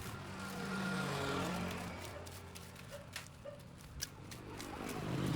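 A motor vehicle driving past, its engine sound swelling to a peak about a second in and fading away, with another vehicle approaching near the end.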